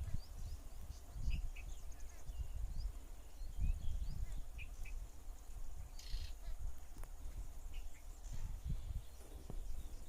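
Small birds chirping in short, scattered calls, over an uneven low rumble.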